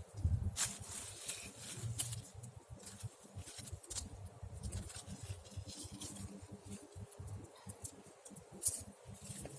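Campfire crackling: irregular snaps and pops at uneven intervals over a low rumble, with a louder pop near the end.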